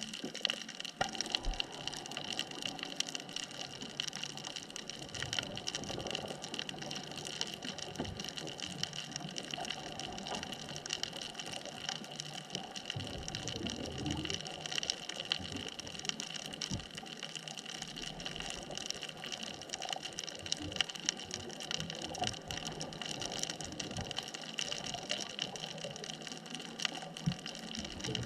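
Underwater ambience at a sunken bridge-span reef: a dense, steady crackle of tiny clicks over a constant hiss, with bubbly water sounds swelling and fading, strongest around the middle.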